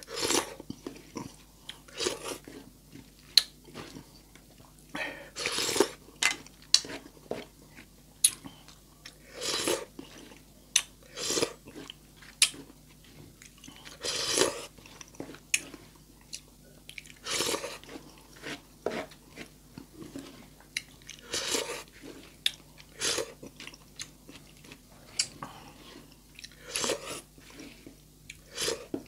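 Close-miked eating: a person chewing mouthfuls of canned sardines and rice in irregular noisy bursts, with sharp clicks and taps from the spoon in between.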